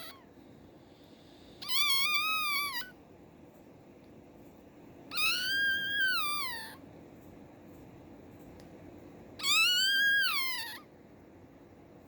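Newborn Havanese puppy crying loudly, three long high-pitched wails that each rise and then fall in pitch, about four seconds apart: a hungry newborn calling for its mother.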